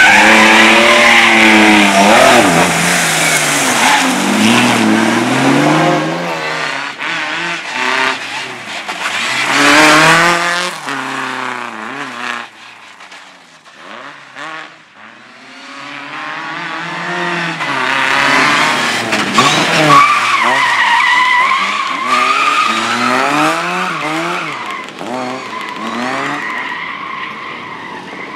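Slalom car's engine revving hard through repeated bursts of acceleration and lift-off as it is thrown around the course, with tyres squealing. It fades briefly about halfway through, then comes close again with long tyre squeals.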